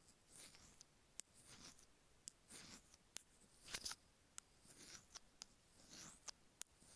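Stainless steel ear pick scraping over the rough grooves of an iPhone earphone microphone in short, gritty strokes, under two a second, with sharp little ticks between them. The loudest stroke comes a little past the middle.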